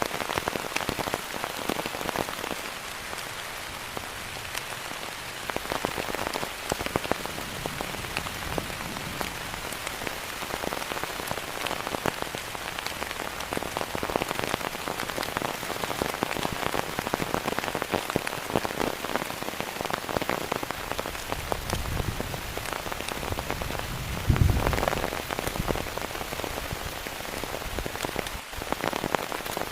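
Heavy rain falling steadily, dense patter of drops striking surfaces. About three-quarters of the way through, a brief deep rumble swells up and is the loudest moment.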